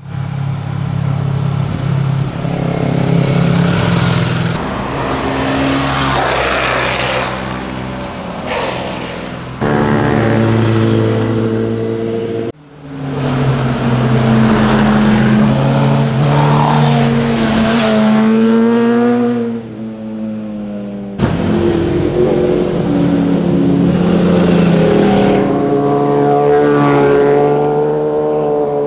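Sport motorcycles passing one after another, their engines revving up and down through the rev range with each pass. The sound changes abruptly three times as one bike gives way to the next.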